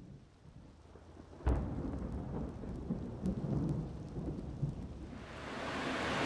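A sudden thunderclap about a second and a half in, rumbling low for a few seconds, then heavy rain swelling into a steady downpour near the end.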